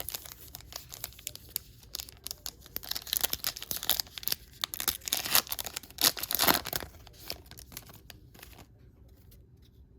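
A 2020 Panini Mosaic football card pack being torn open by hand, its wrapper crackling and crinkling, with the crinkling heaviest in the middle and dying away near the end.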